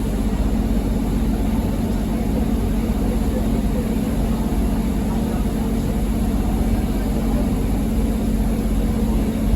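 A vehicle's engine running steadily, a continuous low drone with no change in pitch or level.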